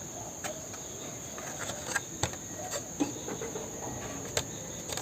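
A steady, thin, high-pitched trill like insects, with several sharp clicks and taps scattered through it.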